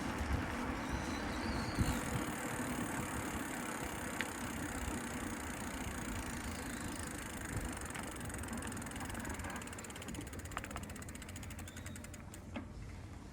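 Steady street traffic noise: car engines running nearby over a low rumble, easing off slightly toward the end.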